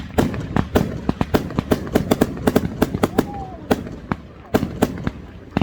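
Fireworks going off in a rapid, continuous string of sharp cracks and bangs, several a second.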